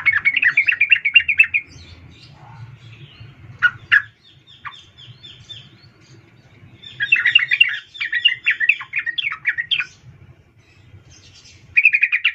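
Yellow-vented bulbul (trucukan) calling in fast, bubbling chattering bouts: one at the start, a longer one from about 7 to 10 seconds, and another just before the end, with a quick run of short high notes around 4 seconds. It is presented as a female's call to a male, used to provoke a male into song.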